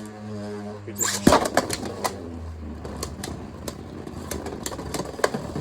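Two Beyblades launched into a plastic stadium about a second in, then spinning and clashing: a whirring rattle full of sharp plastic clicks as the tops hit each other and the stadium wall, with a louder flurry of hits near the end. A steady low drone stops at the launch.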